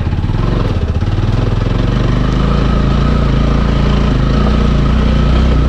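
Motorcycle engine running at low, steady revs, growing a little louder near the end.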